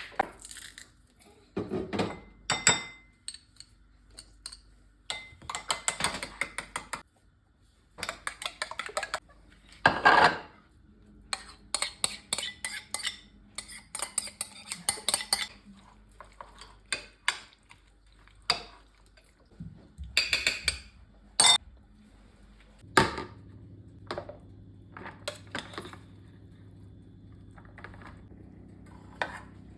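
Dishes and cutlery clinking and clattering in many short, sharp knocks as kitchenware is handled. About three quarters of the way through, a steady low hum sets in under a few lighter clicks.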